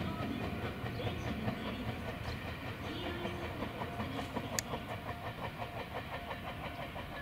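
Meitetsu electric train running past, its wheels clattering over the rail joints in a quick, even rhythm that slowly fades. A single sharp click about four and a half seconds in.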